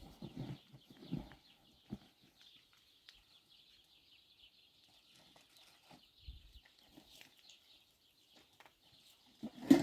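Quiet rural ambience with animals about: a steady faint high chirring throughout, a few soft knocks, and louder knocks near the end.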